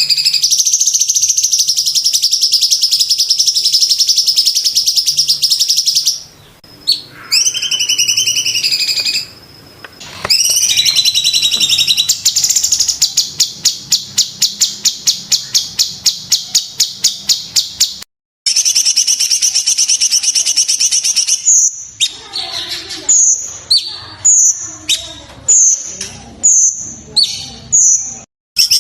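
Cucak cungkok singing loudly in high, fast trills and rapid strings of repeated notes. In the last third come about eight separate sharp, down-slurred calls, roughly one a second.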